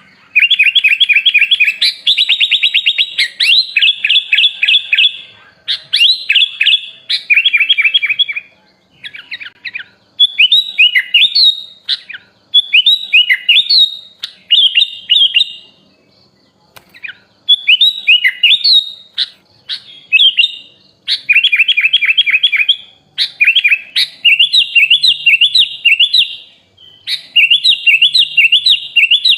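Sooty-headed bulbul (kutilang) singing a loud, busy song of rapid trilled and chattering phrases, each a second or two long with short gaps between them. The song is laced with fill-in phrases copied from other songbirds.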